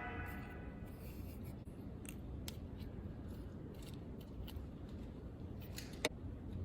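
Faint, scattered light clicks and ticks over low room hum, with one sharper click about six seconds in, as the tail of background music dies away at the start.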